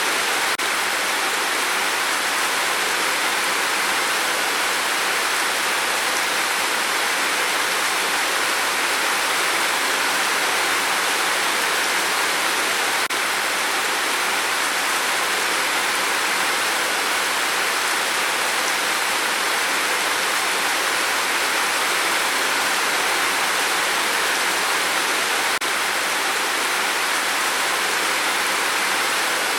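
Steady rain on a tin roof: a dense, even hiss with no distinct single drops.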